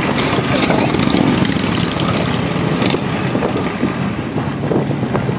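Harley-Davidson V-twin motorcycle engines running loud and steady, a dense low exhaust rumble.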